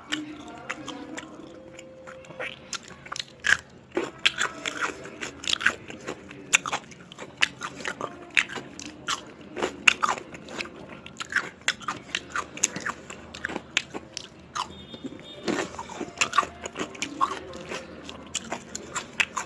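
Close-up eating sounds: a person chewing and crunching food, with many short, sharp mouth clicks and crunches at an irregular pace.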